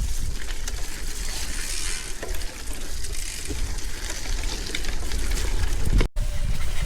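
Wind buffeting the camera microphone over the steady hiss and crackle of bicycle tyres rolling on wet gravel. The sound drops out for an instant about six seconds in.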